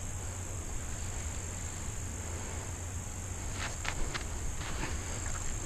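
Steady high-pitched drone of insects singing in the woods, with a few brief crunches of footsteps in leaf litter in the second half.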